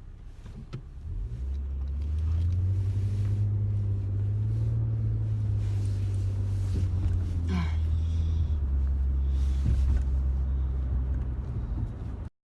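Car engine and road rumble heard from inside the moving car's cabin: a steady low drone that swells about a second in and then cuts off suddenly near the end.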